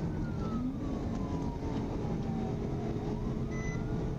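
Police siren on wail, its pitch sliding slowly down and then rising again about three seconds in, over a steady rumble of engine and road noise during a high-speed pursuit.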